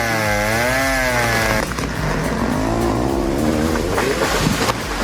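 Stihl 070 two-stroke chainsaw running under load in a cut, its engine pitch rising and falling in a steady wave. The sound cuts off abruptly under two seconds in and gives way to a rushing noise.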